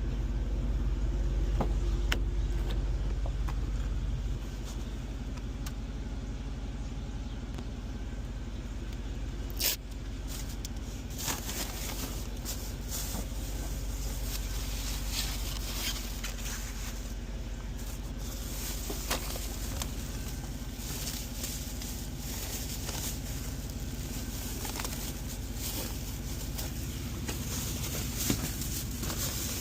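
Car running, heard from inside the cabin: a steady low rumble, louder for the first few seconds, with scattered clicks and knocks, one sharper knock about ten seconds in.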